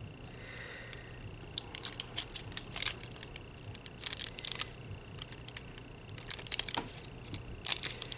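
Thin nail transfer foil crinkling and scratching in several short bursts as it is pressed and rubbed hard onto a gel-polished fingernail.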